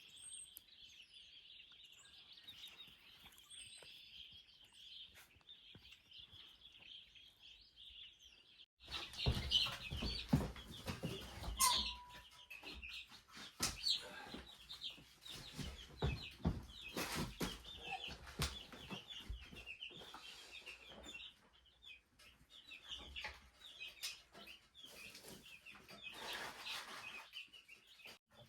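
Baby chicks peeping, a dense chorus of short high peeps. About nine seconds in it becomes louder and closer, with knocks and rustling mixed in among the peeps.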